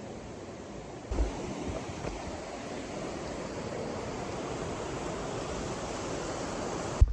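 Steady rushing of river water, which steps up louder about a second in.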